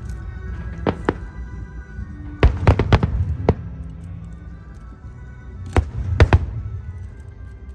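Fireworks shells bursting in sharp bangs: one about a second in, a quick run of several from about two and a half to three and a half seconds, and a few more near six seconds. Music for the show plays steadily underneath.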